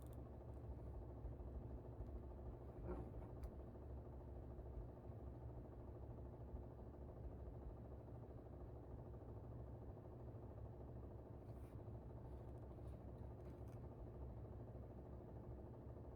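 Air conditioner running with a steady low hum, with a few faint ticks from the desk.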